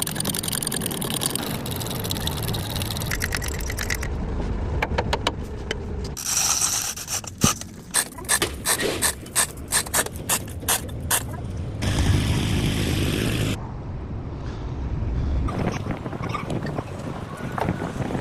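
Hand-tool work on metal in a truck workshop: a run of about fifteen sharp, irregular clicks and knocks in the middle, between stretches of steady mechanical noise, with a brief louder rush of noise after the knocks.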